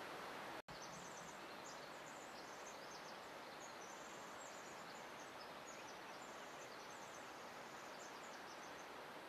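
Steady, even outdoor background hiss, cut by a brief dropout under a second in. After that, a small bird sings high, rapid twittering phrases that stop shortly before the end.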